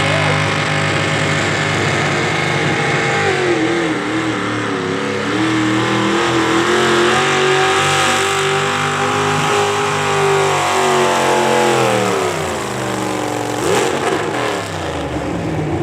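Pulling tractor's engine held at high revs. About twelve seconds in the revs drop, then there is a brief throttle blip near the end.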